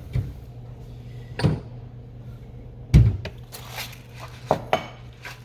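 Kitchen handling sounds: a handful of separate knocks and bumps, the loudest about three seconds in and two quick ones near the end, over a low steady hum.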